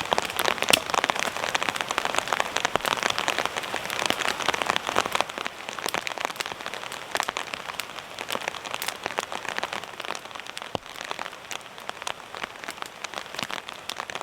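Heavy rain falling on taut shelter fabric, a dense patter of individual drop hits over a steady hiss, easing a little about five seconds in.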